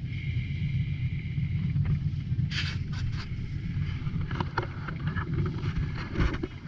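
A boat under way on the water: a steady low rumble, with scattered short, sharp knocks and clicks from about two and a half seconds in.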